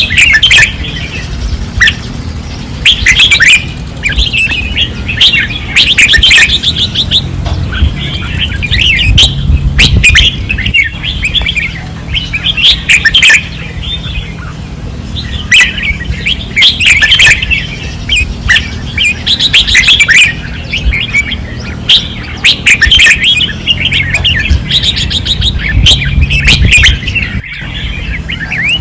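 Red-whiskered bulbuls singing fiercely, short rapid chirping phrases following one after another with hardly a pause, over a steady low hum.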